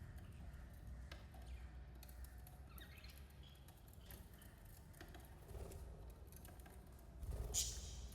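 Budgerigars chirping faintly and sparsely, with light scratching and rustling. There is a louder rustle about seven and a half seconds in.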